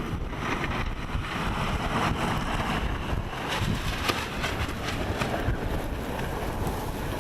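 Strong blizzard wind buffeting the microphone: a steady low rumble with a rushing hiss that is strongest in the first few seconds.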